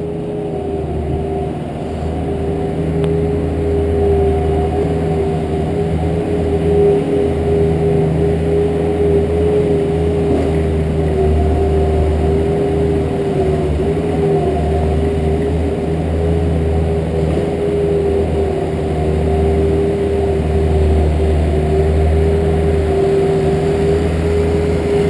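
Truck running steadily: a low engine drone with a steady, even whine over it.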